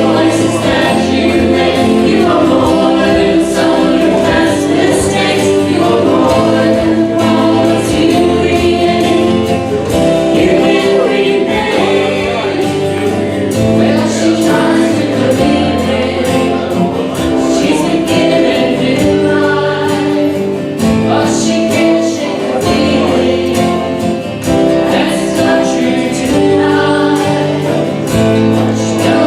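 A choir or congregation singing a hymn with instrumental accompaniment, steady and full throughout.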